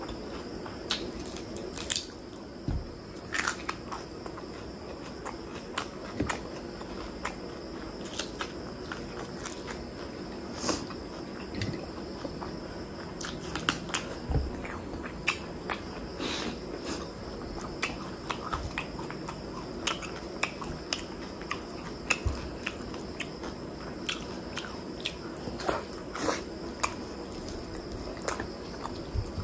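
Close-miked chewing of chicken liver and gizzard curry with rice: wet mouth smacks and sharp clicks scattered irregularly throughout.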